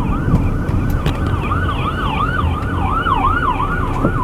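Emergency vehicle siren on the fast yelp setting, a quick rising-and-falling wail repeating about three times a second, over low vehicle road noise.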